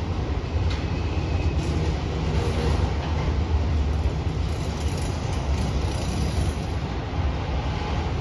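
Empty autorack freight cars rolling past on the rails, making a steady low rumble.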